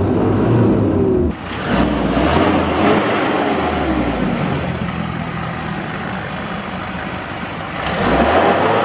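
Car engine revving, the pitch climbing and dropping again several times, with a sudden change in the sound about a second in and a louder stretch near the end.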